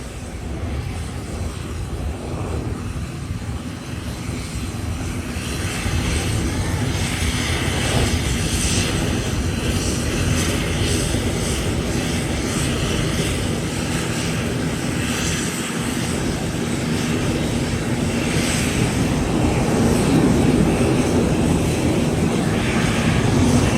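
Lockheed Martin F-22 Raptor's twin Pratt & Whitney F119 afterburning turbofans, a steady jet roar during its takeoff, growing gradually louder.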